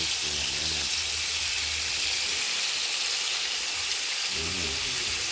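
Food frying in hot oil in a pot, a steady sizzle.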